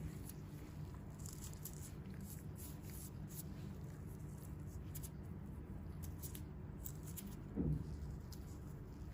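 Faint scattered crackles and ticks of hands handling skin on a foot, over a steady low hum, with one soft thump about three-quarters of the way through.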